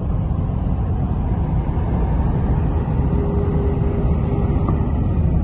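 Scania V8 lorry engine running, a loud, steady low rumble.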